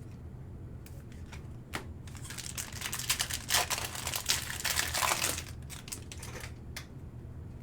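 Crinkling and clicking of a trading-card pack wrapper and cards being handled, densest for about three seconds in the middle, over a low steady hum.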